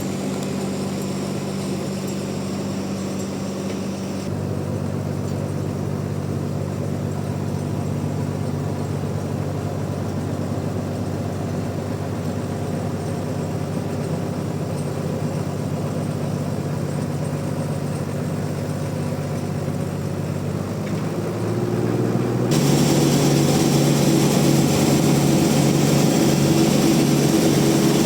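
A heavy engine running steadily. Near the end its pitch steps up and the sound gets louder.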